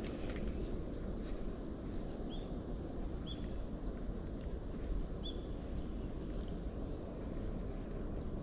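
Several short, high, arching bird chirps scattered through, over a steady low outdoor rumble.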